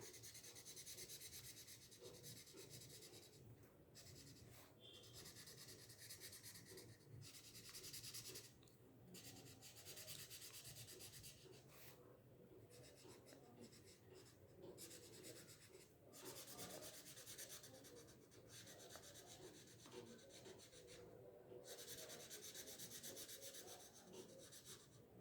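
Faint scratching of a felt-tip marker on paper, in stretches of quick back-and-forth colouring strokes with short pauses between them.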